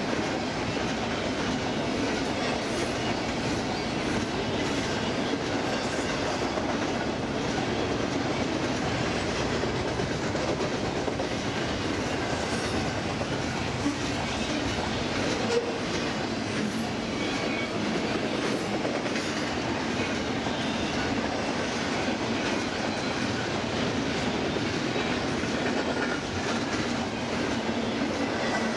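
Double-stack intermodal train's container-laden well cars rolling past: a steady rolling noise of steel wheels on rail, with two sharper clicks about halfway through.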